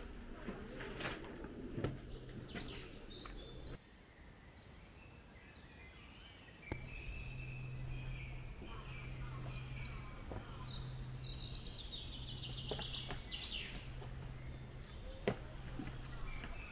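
Birds chirping and trilling over a low steady hum, with a few sharp clicks; the hum and background drop away for a few seconds early on, then return.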